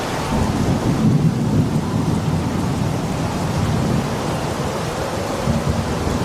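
Rainstorm with continuous rolling thunder: a steady low rumble under the hiss of rain, with no sharp claps.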